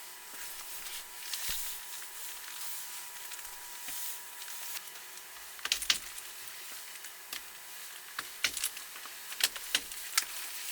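Scattered light clicks and taps, a few sharper ones in quick pairs from about the middle on, over a steady hiss and a faint steady whine.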